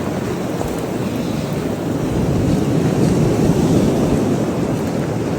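Strong wind blowing steadily, buffeting the microphone with a dense rushing noise.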